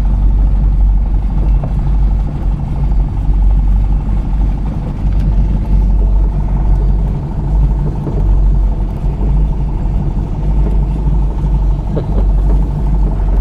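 Chevrolet Nova hot rod's engine and exhaust running steadily at cruising speed, a loud low drone with road noise, heard from inside the car.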